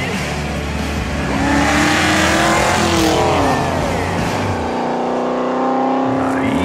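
Car engine accelerating hard, its pitch climbing and falling, then held steady for a couple of seconds.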